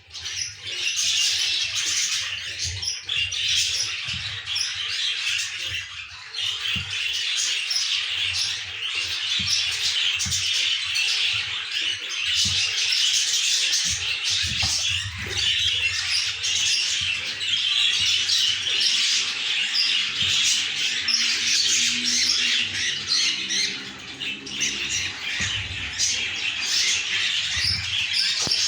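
A flock of budgerigars chattering and squawking without pause, a dense high-pitched twittering of many birds at once.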